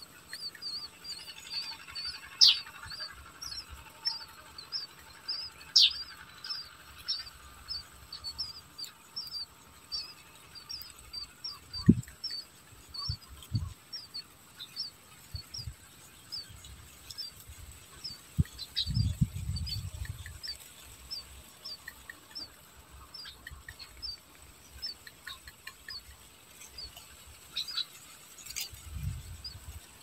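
A bird chirping in a quick, even run of short high notes, about three a second, with a few low thumps and a rumble partway through.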